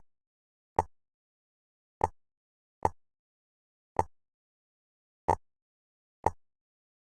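Sharp single clicks of jigsaw puzzle pieces being set down and pressed into place, seven of them at uneven spacing of about one a second, with dead silence between.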